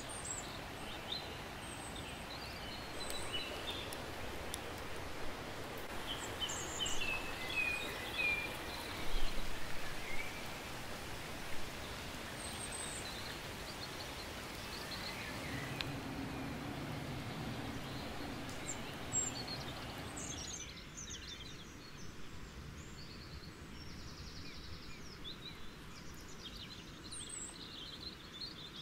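Forest ambience: small birds chirping and calling on and off over a steady background hiss. A few louder nearby rustles come in the first half, and a low hum sounds for a few seconds in the middle.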